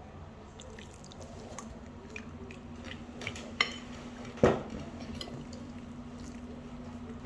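Dishes clinking and knocking as they are handled, with scattered light clicks and two sharper knocks about three and a half and four and a half seconds in, the second the loudest. A steady low hum runs underneath.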